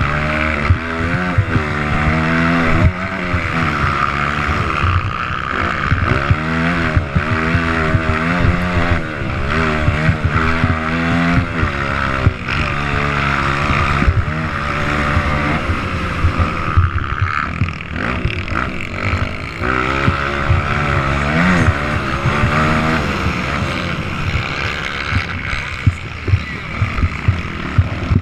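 Motocross bikes racing round a dirt track, their engines revving up and falling back again and again as they accelerate, shift and back off.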